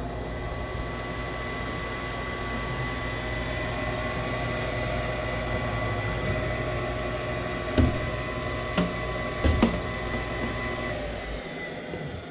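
Furnace draft inducer motor running with a steady hum and several steady tones, with a few sharp knocks late on. The motor shuts off about eleven seconds in.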